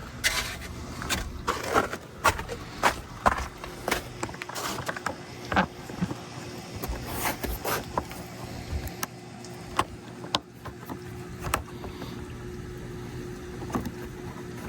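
A run of irregular sharp knocks and crunches, roughly one or two a second, with a faint steady hum joining about halfway through.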